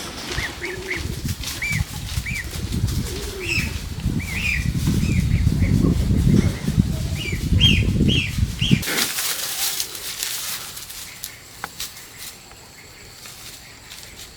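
Birds flapping their wings in a dense flutter, with many short high chirps and a few low cooing calls among them. The sound cuts off suddenly about nine seconds in, leaving a much quieter stretch.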